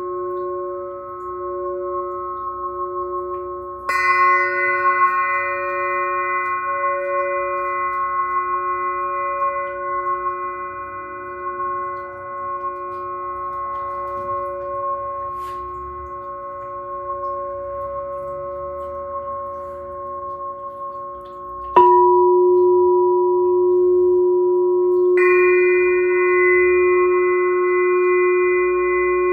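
Glass singing bowl and singing pyramid ringing in long, overlapping sustained tones. New strikes land about four seconds in and twice more near the end, each adding a fresh layer of ringing tones.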